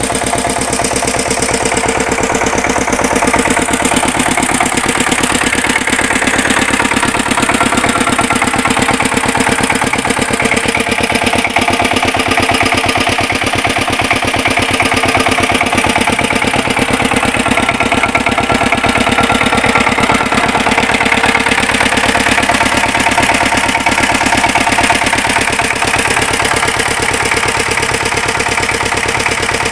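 Freshly rebuilt Kamco power tiller's single-cylinder diesel engine running at a steady speed with a rapid, even firing beat.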